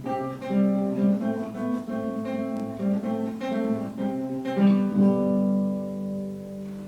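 Acoustic guitar playing a short passage of plucked notes and strummed chords. A final chord is struck about four and a half seconds in and left to ring out, fading.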